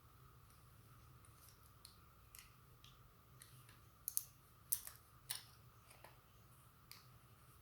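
Sparse faint clicks and taps of small hard parts being handled, with three sharper clicks in the middle, over a faint steady hum.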